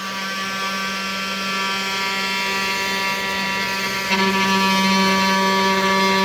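Aluminium-profile CNC router's motors running a test G-code program: a steady whine made of several pitched tones. It grows louder about four seconds in.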